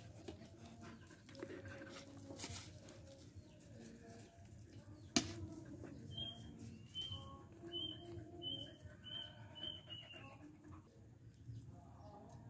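A bird chirping a run of about seven short, high, evenly spaced notes, roughly two a second, in the middle. A single sharp knock comes about five seconds in.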